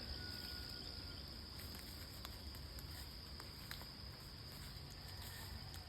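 Steady, faint, high-pitched insect chirring outdoors after rain, with a few faint ticks.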